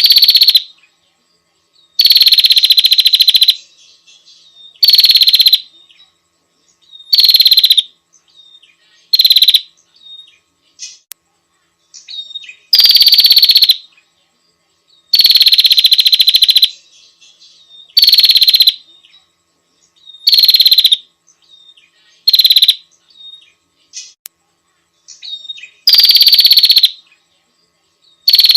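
Female prenjak (prinia) calling: a loud, buzzy trill repeated every two to three seconds, with fainter short notes between, the call used as a lure to draw in males.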